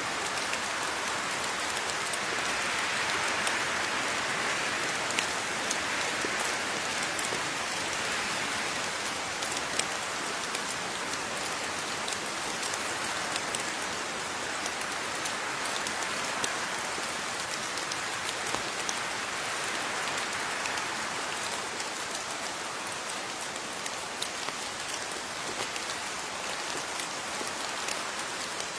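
Steady rain falling, an even hiss dotted with the sharp ticks of individual drops striking a surface.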